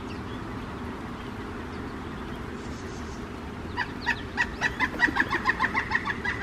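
Male pileated woodpecker calling: a rapid series of loud, evenly spaced notes, about six a second, starting nearly four seconds in. A steady low hum lies underneath throughout.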